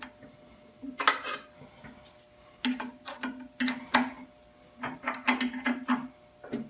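Small metal carburetor parts being handled and fitted back together by hand: a series of light clinks, taps and scrapes, some in quick clusters.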